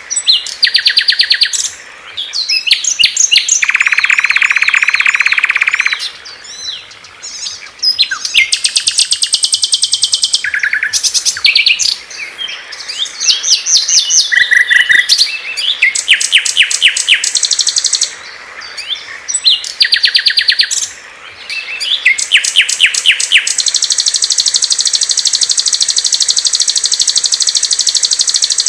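Songs of several small songbirds, spliced one after another: loud, fast, high chirps and trills that start and stop abruptly, with a buzzy call a few seconds in and a long unbroken rapid trill near the end.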